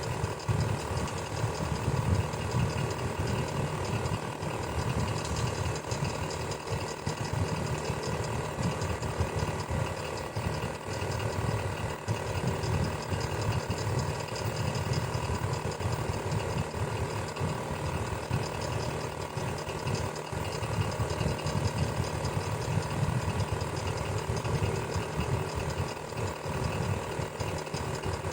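Electric fan running steadily: a continuous low motor hum with a fast, even flutter from the turning blades.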